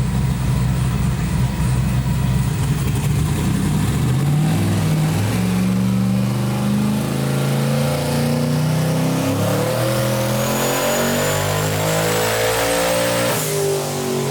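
Twin-turbo Chevy S10 engine on a chassis dyno at 7 psi of boost, rumbling low, then revving up under load for about ten seconds with its pitch climbing and a high whistle rising alongside, before backing off near the end.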